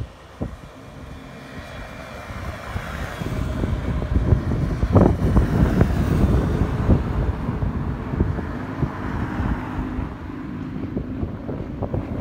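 Keikyu electric train running on the tracks: a low rumble that builds over the first few seconds and then holds, with sharp wheel clacks over rail joints and points.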